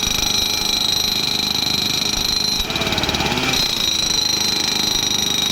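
Railway ballast tamping (packing) machine at work: a continuous rapid vibratory hammering with a steady high whine that drops out for about a second in the middle.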